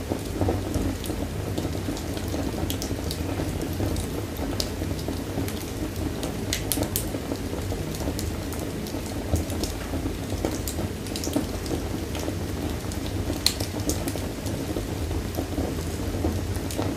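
Fire burning in a fireplace: a steady low rumble of flames with irregular sharp crackles scattered through it.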